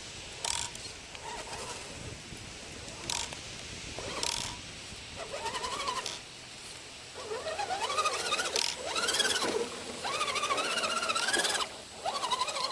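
Electric motor and drivetrain of a Redcat Gen7 RC rock crawler whining in bursts, the pitch rising and falling with the throttle as it drives through deep water, with short sharp noises in between.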